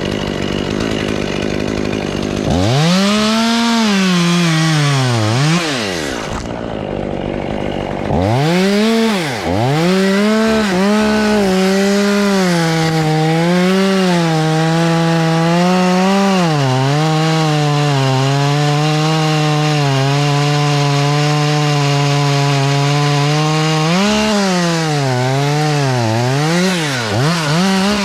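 Chainsaw revving and cutting wood. It idles briefly, revs up and down twice, then holds a steady, slightly lower pitch for about ten seconds through a cut. Several quick revs follow near the end.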